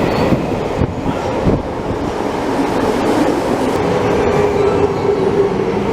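Electric commuter train arriving at a platform: a steady rumble of wheels on rails, joined about three and a half seconds in by a motor whine that drifts slightly lower as the train slows.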